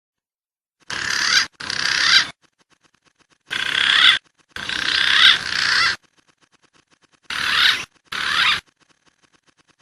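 Recorded wild pigeon calls from a bird-lure track: six short bursts of high, rising and falling calls, each cut off abruptly, with silent gaps between them.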